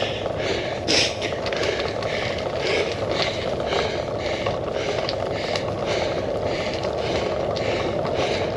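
A cyclist breathing hard in quick, even breaths, about two a second, over steady wind and road noise on a handlebar-mounted action camera. A sharp knock comes about a second in.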